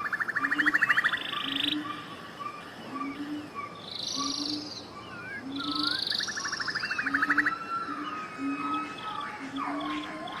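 Several birds calling and singing together, with whistled notes and glides and a fast buzzy trill heard twice, at the start and again about six seconds in. Beneath them a short low call repeats about once a second.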